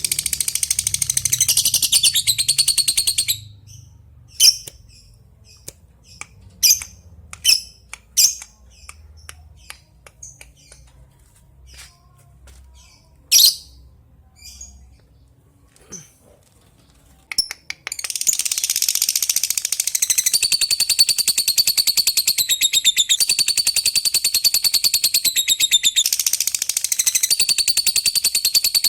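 Lovebird calling: a rapid chattering trill for about three seconds, then single sharp chirps a second or so apart, then, past the middle, a long unbroken run of rapid high-pitched notes, the long 'ngekek' chatter.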